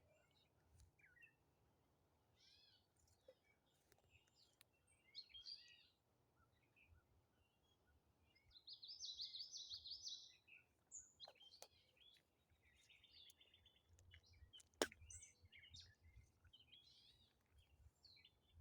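Faint birdsong: several birds chirping and calling, the loudest a rapid trilled phrase about halfway through. A single sharp crack a few seconds before the end.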